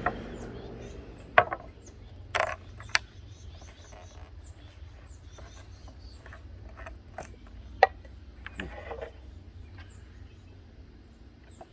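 Scattered clicks and knocks of tools or containers being handled, with a couple of short scrapes, while small birds chirp in the background.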